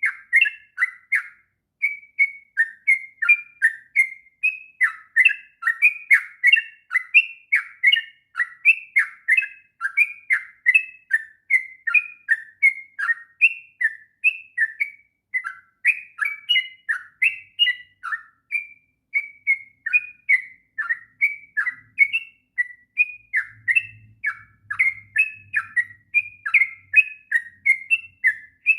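Yellow-vented bulbul (trucuk) singing a long, unbroken run of quick chattering phrases, several short notes a second. This is the continuous 'ngropel' style of song. A faint low hum starts near the end.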